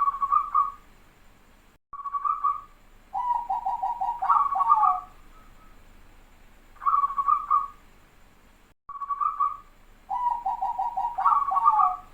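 Zebra dove (perkutut) cooing its song: a couple of short coos followed by a rapid run of stuttering notes, the whole phrase given twice.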